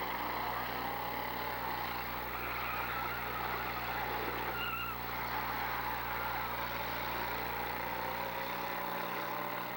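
Demolition derby cars' engines running and revving, their pitch wandering up and down, with a short high note about halfway through.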